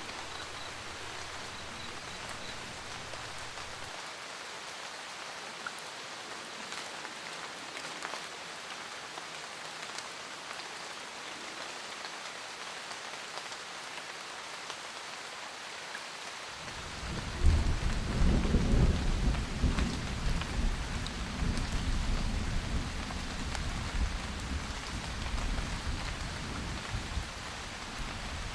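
Steady rain. A little past halfway, thunder breaks as a loud, deep rumble that rolls on and slowly dies away.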